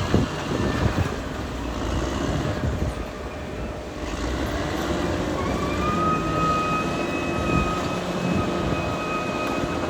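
Caterpillar D6R XL bulldozer's diesel engine running, with a few knocks near the start. A steady whine rises in pitch about five and a half seconds in and then holds as the machine works.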